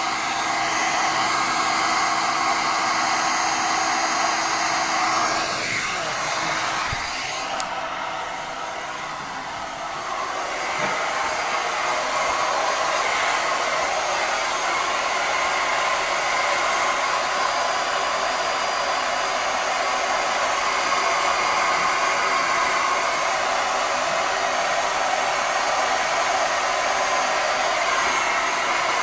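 Electric hair dryer blowing steadily while drying a washed furnace filter, its steady whine running over a rush of air. About six seconds in its pitch falls and the sound drops; it picks up again and runs steadily from about ten seconds in.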